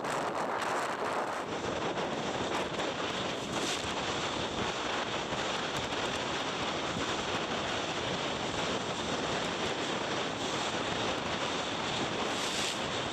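Steady wind buffeting the microphone, with rushing water, aboard a boat under way on the lake.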